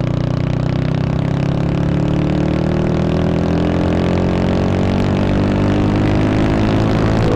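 Honda Wave 125 motorcycle's single-cylinder four-stroke engine under way, its pitch rising slowly and evenly as the bike gathers speed.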